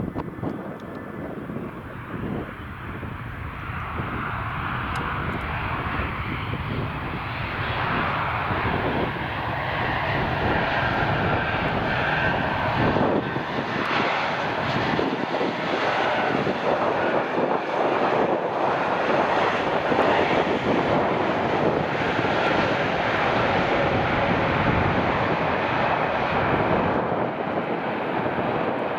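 Jet aircraft engines passing close by: the engine noise grows steadily louder over the first several seconds, then holds loud and rough, with a whining tone through the middle.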